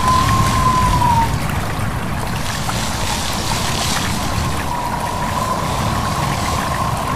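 Wind whistling in a thin, wavering tone that fades out about a second in and comes back about halfway through, over a steady rush of wind and stream water.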